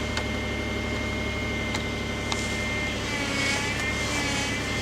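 Car engine idling just after a cold start in below-freezing cold, with a thin high whine over the low engine hum that wavers in pitch near the end; the owner takes the whine for the power steering pump.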